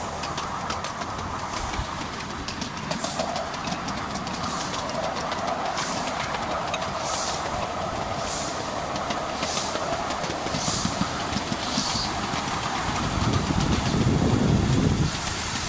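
Miniature-railway wheels clicking over the rail joints while rolling along, with faint hissing pulses about once a second. Near the end, Lancashire & Yorkshire 0-6-0 steam locomotive No. 52322 passes close on the adjacent track with a deep rumble that cuts off suddenly as it goes by.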